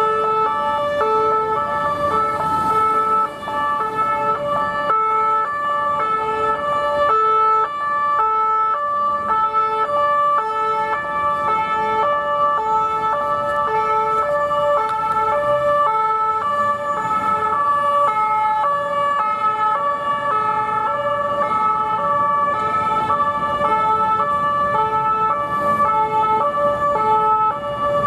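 French police two-tone sirens from a police car and van, more than one sounding at once, each stepping between a high and a low note about every half second. Road traffic runs underneath.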